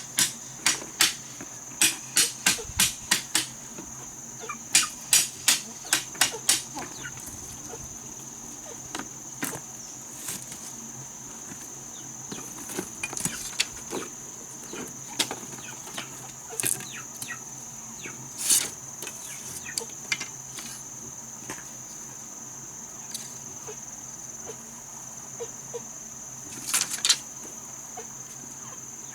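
Hand-tool strikes during building work: a quick run of sharp knocks, about two or three a second, for the first seven seconds, then scattered single knocks. Under them runs a steady, high insect drone.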